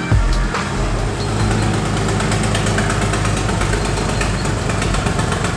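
BMW E46 330i's M54 straight-six engine idling steadily, with a short thump right at the start.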